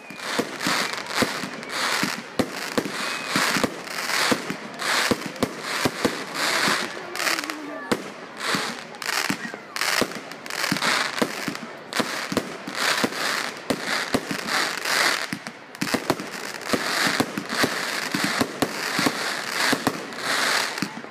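Fireworks going off in quick succession: many sharp bangs, several a second, mixed with crackling bursts.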